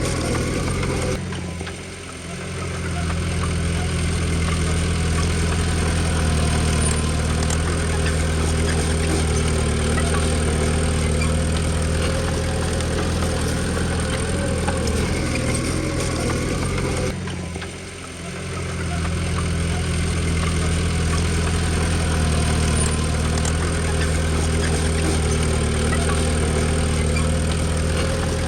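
Diesel engine of a Komatsu D20P bulldozer running steadily at an even speed, with two short dips in loudness, about a second in and again past the middle, each recovering over a couple of seconds.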